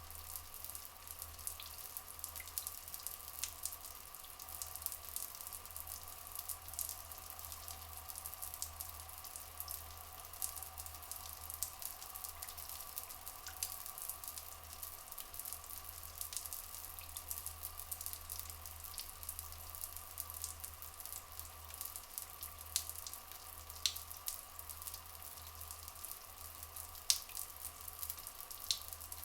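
Rainforest ambience of running water: a constant trickle with many small drips and crackling splashes, over a steady faint high drone.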